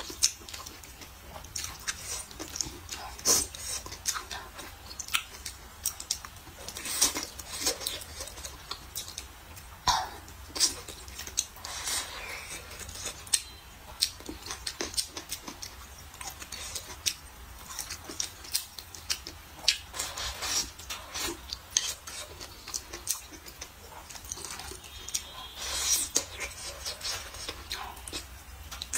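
Close-up eating sounds: wet chewing, lip smacks and sucking noises as soft braised eggplant, green peppers and century egg are taken from chopsticks, in irregular clicks and smacks throughout.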